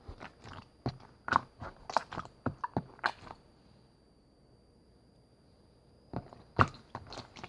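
Slime being squeezed and poked, giving a quick run of sharp clicks and pops. It stops for about three seconds midway, then starts again.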